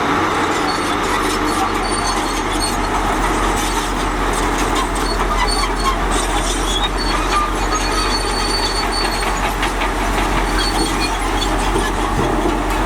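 Crawler bulldozer working: its diesel engine running steadily under the clatter of its steel tracks, with a thin high squeal now and then.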